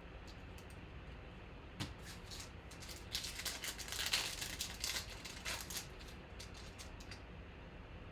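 Trading cards and their plastic pack wrapping being handled, making crinkling and small clicks. There is a single click about two seconds in, and the crinkling is loudest a few seconds in.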